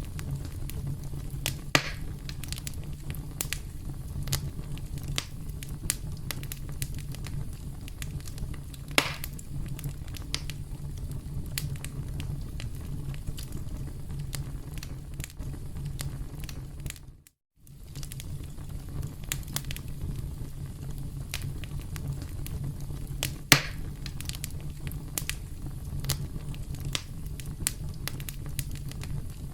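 Campfire crackling: a steady stream of small clicks and pops from burning wood over a low, steady rumble, with a few louder pops. A little past halfway the sound cuts out completely for a moment, then resumes.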